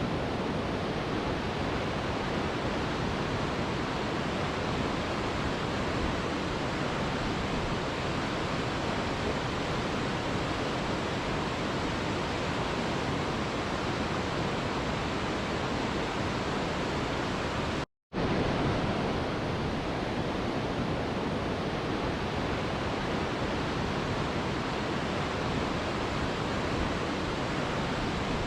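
Mountain river rushing in a steady, even roar of flowing water, broken by a split-second dropout to silence about two-thirds of the way through.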